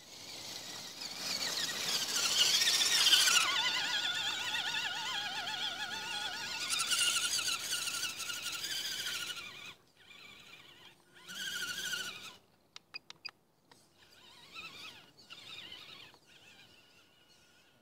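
Radio-controlled truck's motor whining, its pitch rising, falling and wavering with the throttle over tyre and drivetrain noise. After about ten seconds it comes in short bursts, with a few sharp clicks.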